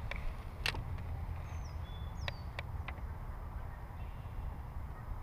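A bird sings one short phrase of high whistles that slide downward, with one steady note among them. Under it runs a low steady rumble, and a few sharp clicks sound, one about a second in and three close together just past the middle.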